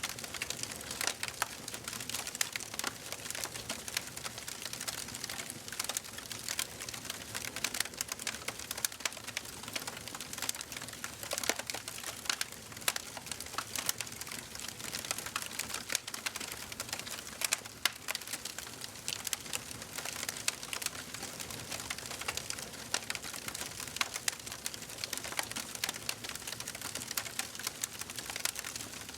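Wood fire burning in a fireplace, crackling with a dense run of small sharp pops over a soft hiss, a few louder snaps standing out.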